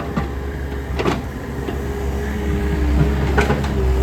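Takeuchi excavator's diesel engine running steadily with a low drone, its hydraulics giving a few higher tones that shift in pitch while it digs out roots. A few sharp knocks, about a second in and again near the end.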